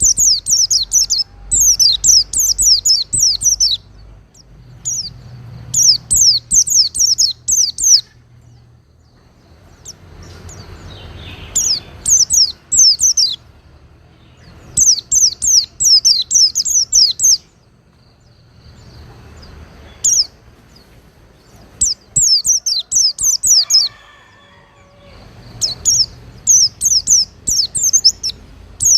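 White-eye (pleci) singing: repeated phrases of two to three seconds, each a rapid run of high, quick, downward-sweeping notes, with short pauses between phrases.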